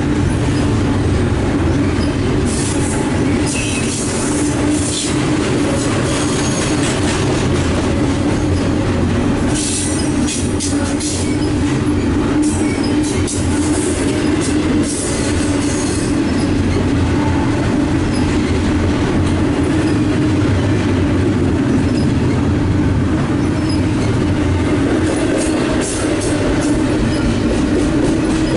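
Double-stack intermodal well cars of a CSX freight train rolling past at close range: a steady rumble of steel wheels on rail, with irregular clatter from the wheels over the track.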